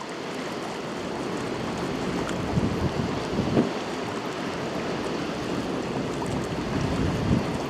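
Steady outdoor rush of wind and water, with wind gusting against the microphone a couple of times.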